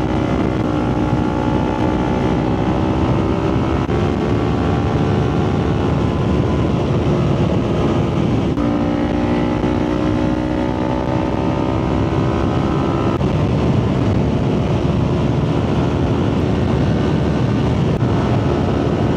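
Motorcycle engine pulling under way, its pitch climbing slowly, with drops in pitch at upshifts about four and eight and a half seconds in. Steady wind rush runs underneath.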